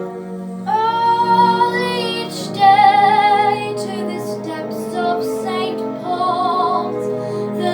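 A young girl's solo singing voice, with vibrato on the held notes, over a soft instrumental accompaniment; the voice comes in about a second in and carries on in sung phrases.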